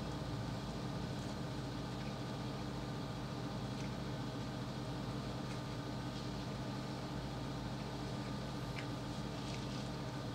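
A steady low hum, with a few faint short clicks and smacks of eating fried chicken with the fingers.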